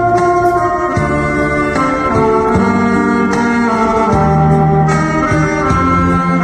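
Saxophone duet playing a slow melody in held, stepping notes over an accompaniment track with a bass line and a steady beat.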